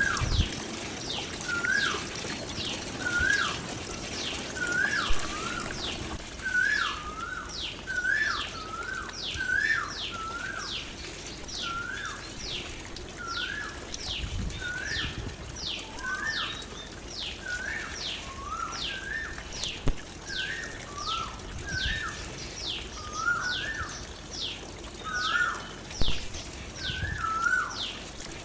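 Birds calling over and over: a high, quick down-slurred note repeated about one to two times a second, and a lower two-part note repeated about once a second, over a steady wash of trickling water.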